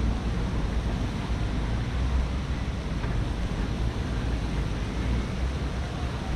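Wind buffeting the camera microphone in a low, unsteady rumble over a steady rushing noise.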